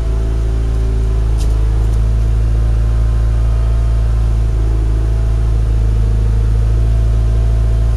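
Mitsubishi Lancer Evolution IX's turbocharged four-cylinder engine idling steadily on E85 after a cold start, with no ticking or knocking.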